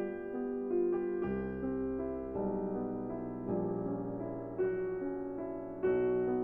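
Background music: a piano playing a gentle melody over chords, with the bass note changing about once a second.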